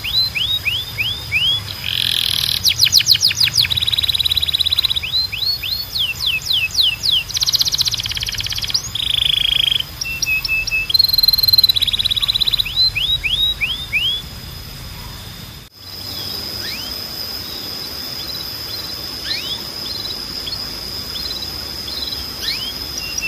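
Domestic canary singing: fast trills of repeated downward-sweeping whistles, each rolled series changing to the next, with a short held note in the middle. About two-thirds of the way through the song cuts off abruptly and continues more quietly, with scattered single chirps over a steady high tone.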